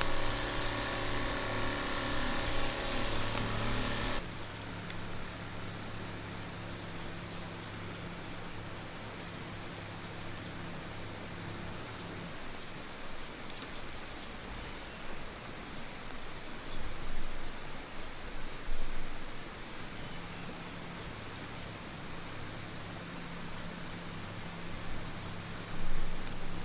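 A loud steady hiss cuts off sharply about four seconds in. After it comes a quiet outdoor background with a thin, steady high insect trill, a low hum and a few soft knocks.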